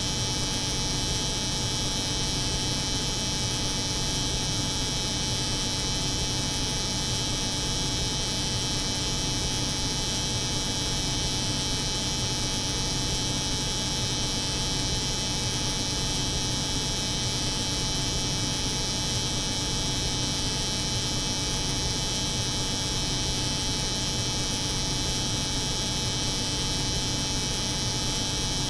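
Steady, unchanging electric hum of a hair clipper running, layered with the drone of a cold room's refrigeration unit.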